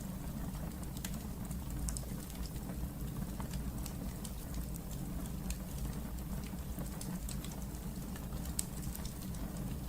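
Wood fire burning in a fireplace: a steady low rumble with scattered sharp crackles and pops, one louder pop near the end.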